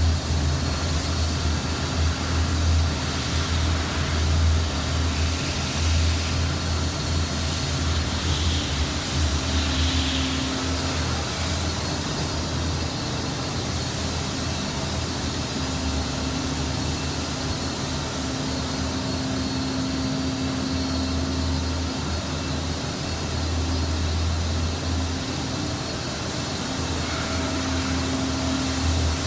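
Boiler firing during its fire test: a steady rushing noise over a low, wavering rumble, with a faint steady hum.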